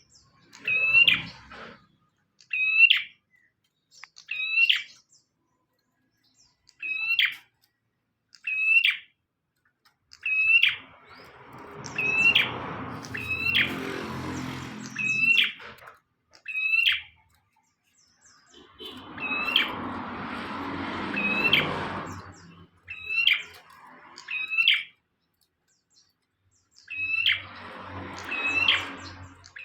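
Bar-winged prinia (prenjak) calling: a loud, sharp chirp repeated every second or two, often in pairs. Three stretches of a lower rushing noise, a few seconds each, lie under the calls.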